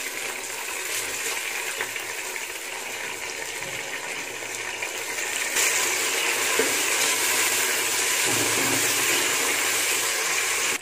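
Onions frying in hot oil in an aluminium pot, a steady sizzle stirred with a slotted spoon. About halfway through the sizzle gets louder and brighter as fresh mint and coriander leaves go into the oil.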